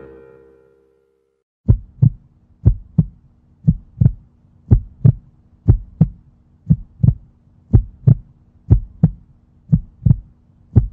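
Heartbeat sound effect: a steady lub-dub of paired low thumps, about one beat a second, over a faint hum. It starts about a second and a half in.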